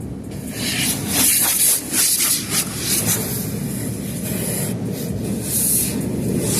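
High-pressure water jets of an automatic car wash spraying onto a car: a long hissing spray that starts just after the beginning and lasts about three seconds, then another shorter burst near the end, over a steady low rumble.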